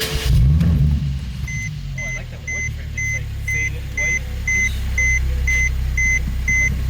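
Mercedes M276 3.5-litre V6 starting up, flaring briefly in revs and then settling into a steady idle. From about a second and a half in, the car's warning chime beeps steadily about twice a second over the idle.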